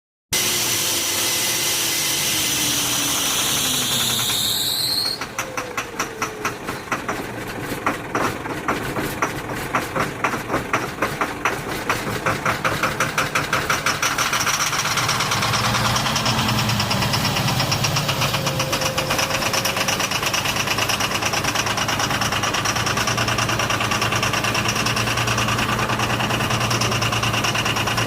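Vehicle engine being started: a rising whine for the first few seconds, then the engine catches and runs in uneven pulses before settling into a steady idle about halfway through.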